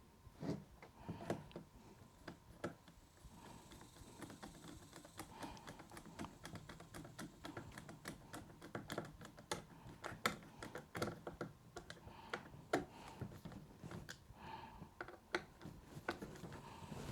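Faint, irregular clicks and taps of small parts and a hand tool being handled on an Uhlmann fencing reel as it is put back together, the clicks coming thicker through the middle.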